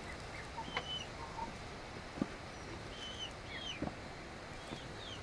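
Small birds giving short high chirps every second or so, with two light knocks in between.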